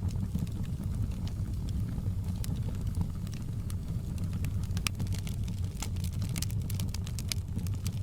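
Wood fire crackling: scattered sharp pops and snaps, more of them in the second half, over a steady low rumble.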